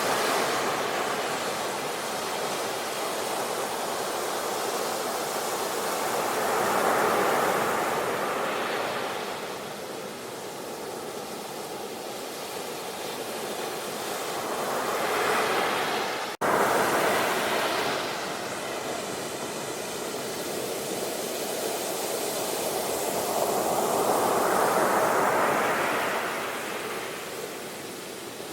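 Sea waves breaking and washing up a shore: a steady rush of surf that swells and falls back three times, with a momentary dropout about two-thirds of the way through.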